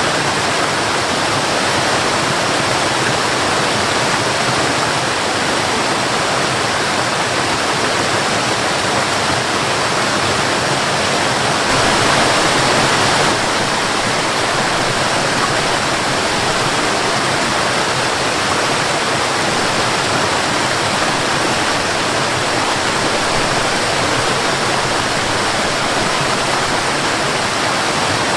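Waterfall rushing steadily, briefly a little louder about twelve seconds in.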